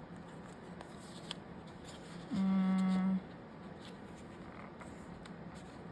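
A woman's short hummed 'hmm', held on one steady pitch for just under a second about two seconds in, with faint rustles and ticks around it.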